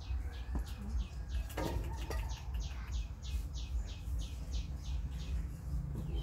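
A bird calling in a steady run of short, high chirps, about three a second, over a low steady rumble.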